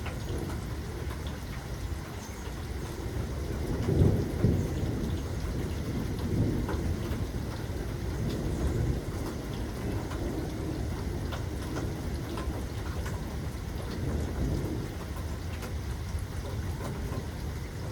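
Steady rain with faint patter of drops, under rolling thunder. A louder thunder clap comes about four seconds in, and its low rumble rolls on for several seconds before dying back into the rain.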